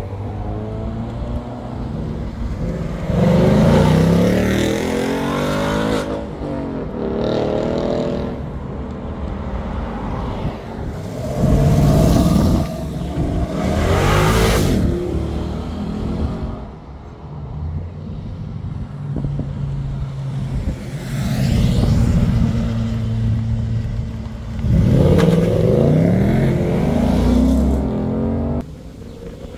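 Several Ford Mustangs pull away one after another, each engine revving up as the car accelerates past. Between the pulls the engines run steadily at low revs, and the sound drops off suddenly near the end.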